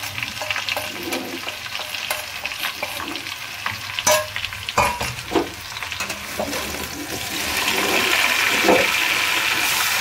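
Potato wedges and drumstick pieces sizzling in hot oil in a kadai while wet ground mustard-and-garlic masala is spooned in and stirred through with a spatula, with scraping and a couple of sharp clinks of utensils on the pan about four and five seconds in. The sizzle grows louder in the second half as the masala is mixed into the oil.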